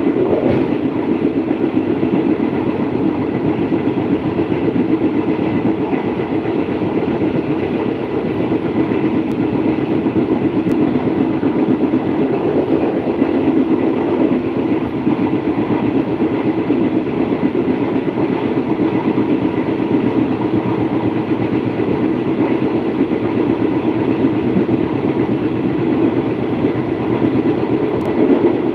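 Steady rumble of a passenger train running along the track, heard from inside a carriage.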